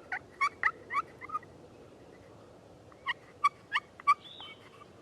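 Wild turkey calling: two runs of short, sharp yelping notes, about four a second, the first in the opening second and a half and the second around three to four seconds in.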